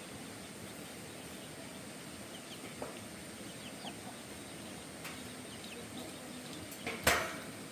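Faint birds chirping and calling in the background over a steady high-pitched tone, with one sharp knock about seven seconds in.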